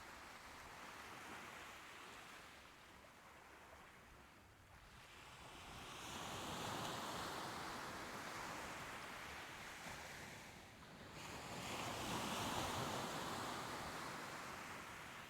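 Soft ocean waves washing ashore in slow swells of surf. The sound ebbs early, then two waves rise and break, one about five seconds in and another near the end.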